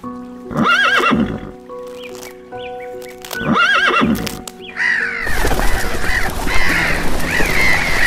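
A horse whinnying twice, about a second in and again around four seconds, over background music. From about five seconds a flock of gulls calling, many overlapping cries.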